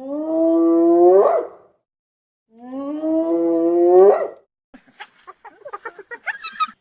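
Spotted hyena giving two long whoop calls, each rising slowly and then sweeping sharply upward at the end. From a little before 5 s, a fast run of short, choppy calls follows.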